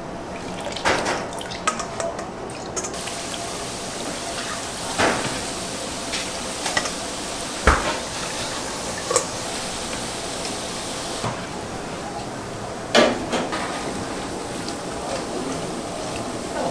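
Kitchen work sounds: scattered knocks and clinks of utensils and dishes over a steady hiss, with liquid dripping or pouring.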